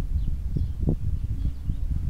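Outdoor ambience: an uneven low rumble like wind on the microphone, with a few faint bird chirps.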